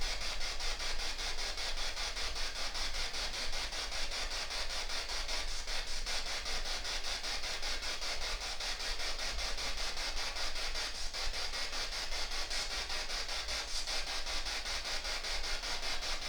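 Radio static from a ghost-hunting spirit box sweeping through stations: a steady hiss chopped into rapid, even pulses.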